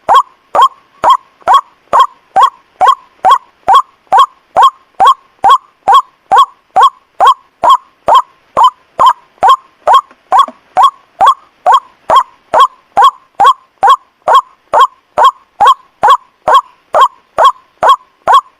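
White-breasted waterhen lure call: the bird's short 'ruak' note repeated at a steady, machine-even pace of about two calls a second, each starting with a sharp click.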